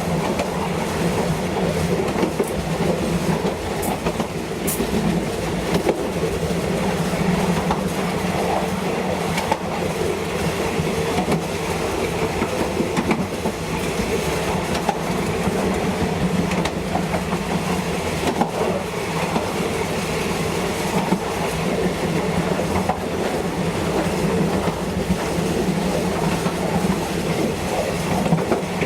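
Passenger train running along the track, heard from on board: a steady rumble with the clickety-clack of wheels over rail joints and a few sharp clicks.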